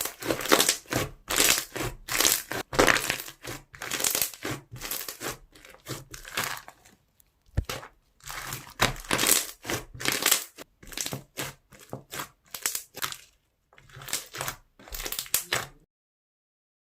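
Crunchy foam slime being squeezed and pressed by hand, crackling and popping in quick repeated bursts, then cutting off suddenly about a second before the end.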